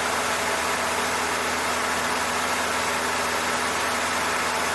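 Cessna 152's four-cylinder Lycoming engine and propeller droning steadily in flight, heard inside the cabin as an even, unchanging hum.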